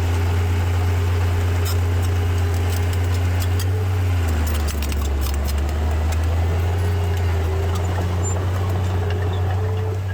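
Heavy diesel machinery engine running under steady throttle, its pitch dropping about four seconds in. A scatter of clicks and rattles runs through the first half.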